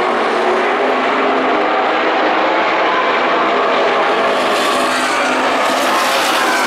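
Pack of NASCAR Camping World Truck Series race trucks' V8 engines running together on the track, a steady, loud drone of many overlapping engine notes.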